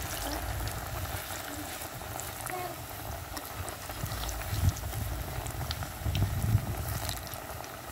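Sliced plantains sizzling and crackling in hot oil in a pot, with a steady bubbling hiss. A few low bumps come in the second half.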